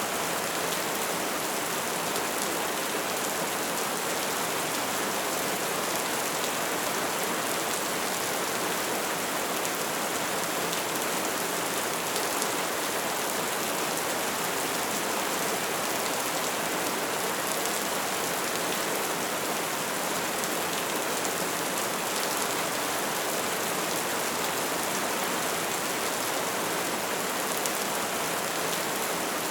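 Wood fire burning with a dense, steady crackle of many fine pops and ticks over a constant hiss.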